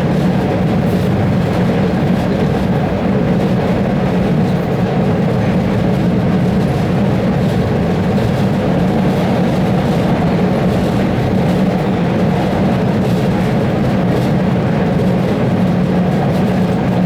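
Red Line subway car running along the track, heard from inside the car: a loud, steady running noise of wheels on rails with a constant low hum.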